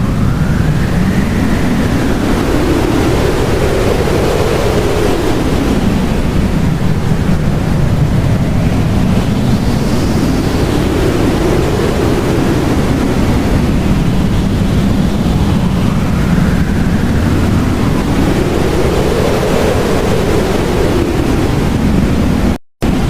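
Blizzard wind blowing steadily and loudly, with howling gusts that rise and fall in pitch every few seconds. The sound cuts out for a moment near the end.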